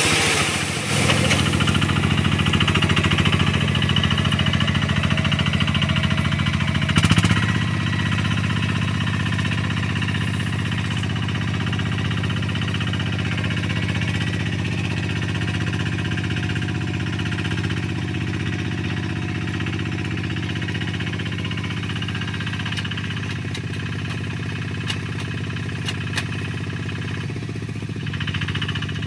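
Quick QH-11 rice combine harvester's engine running steadily, with a brief louder burst about seven seconds in.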